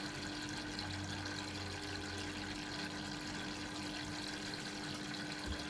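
Dyson Contrarotator CR01 washing machine taking in water: a steady hiss of water running into the drum, with a steady low hum.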